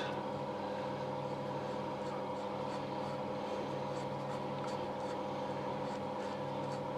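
Steady machine hum made of several held pitches, unchanging in level, with a few faint light ticks over it.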